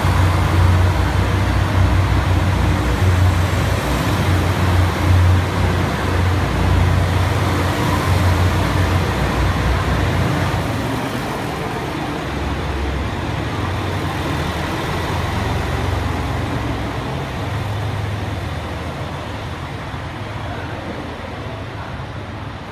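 A passenger train running past close by along a station platform, with a steady low rumble of wheels and running gear. The rumble eases about halfway through and fades as the last cars clear.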